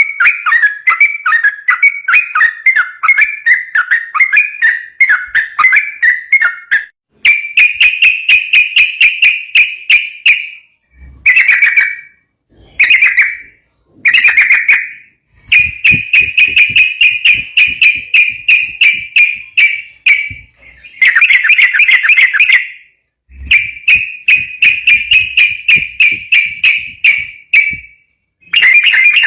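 Yellow-vented bulbul (trucuk) singing in fast, continuous runs of repeated notes, several phrases of a few seconds each with short pauses between them.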